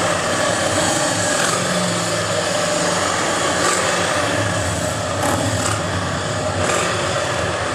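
Distant Formula 1 car's V8 engine holding a steady high note, heard over Harley-Davidson motorcycles running nearby, with a few short clicks.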